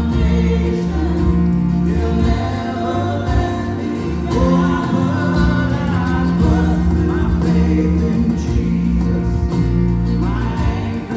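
Gospel worship song: voices singing over instrumental accompaniment with sustained low bass notes.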